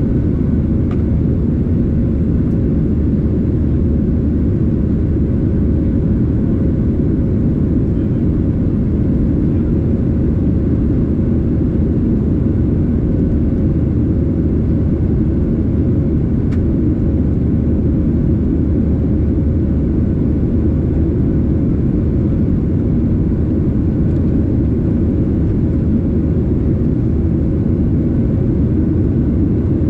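Boeing 737-800 airliner's CFM56 turbofan engines running, a steady low rumble with a faint constant hum that does not change.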